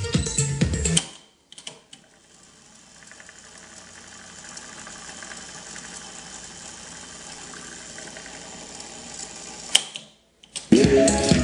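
Kenwood KX-830 cassette deck's tape transport at work: a couple of clicks as a key goes down, then a faint motor-and-tape whirr that grows louder over a couple of seconds and runs steadily, ended by a sharp click near the end.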